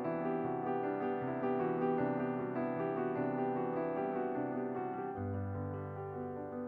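Background piano music: a slow melody over sustained chords, with a deeper bass note joining about five seconds in.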